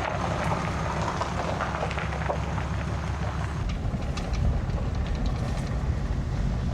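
Truck driving: a steady low engine and road rumble with light rattles.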